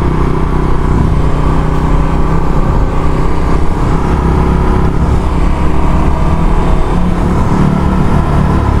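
A 150 cc single-cylinder sport motorcycle engine running at steady revs while underway, heard up close from a camera mounted on the bike.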